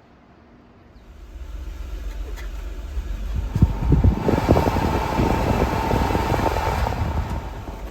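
Daihatsu Hijet kei truck's engine running, a low rumble that builds from about a second in and grows louder from about four seconds in, then eases near the end.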